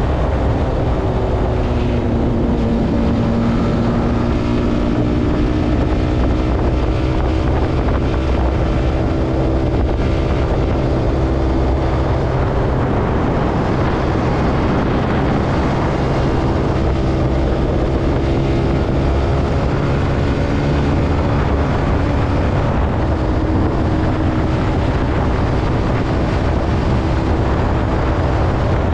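Zontes C125 motorcycle's single-cylinder 125 cc engine running under way, its pitch slowly rising and falling with the throttle, with wind rushing over the microphone.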